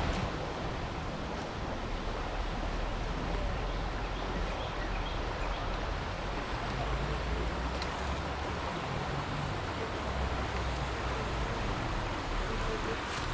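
Small creek's water running steadily: an even rushing hiss, with a low rumble underneath.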